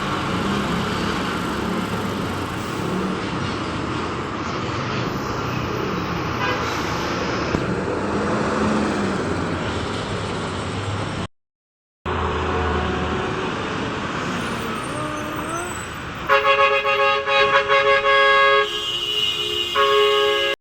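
Roadside traffic, with heavy vehicles' engines and tyres going past in a steady rumble. In the last few seconds a vehicle horn sounding several tones at once blows in a quick string of short blasts, then holds one long chord.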